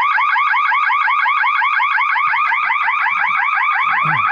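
Electronic security alarm sounding: a loud, fast-repeating rising whoop tone that cuts off suddenly near the end.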